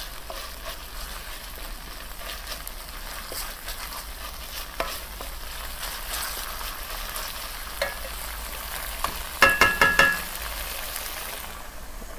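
Mala sauce and dried chilies sizzling in hot oil in a stainless steel wok as they are stirred with a spatula, with small scattered ticks. A little past nine seconds in, a quick run of loud ringing metal knocks from the pan, and the sizzling thins out near the end.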